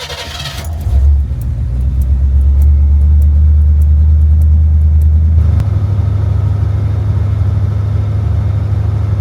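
1974 Chevrolet El Camino's V8 engine starting: it catches with a loud surge about a second in, then runs at a steady idle that steps up to a higher speed about five seconds in.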